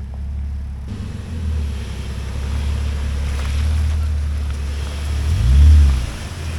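4x4 truck engine running with a steady low drone while driving, over a haze of road and wind noise. About five seconds in, the engine pitch briefly rises and falls, the loudest moment.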